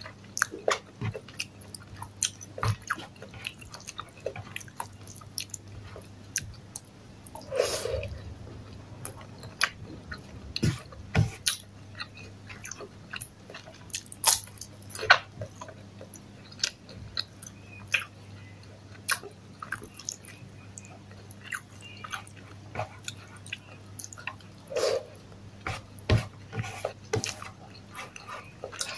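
Close-miked chewing and biting: irregular wet mouth clicks and smacks as a woman eats sautéed bitter gourd with rice and a fried sambosa, over a faint steady low hum.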